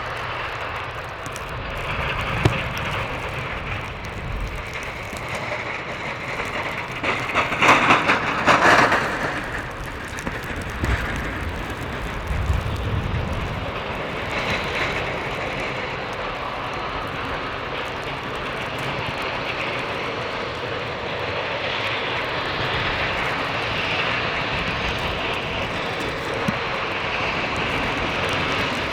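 A snow-clearing machine's engine running steadily, with a louder burst of noise about eight seconds in.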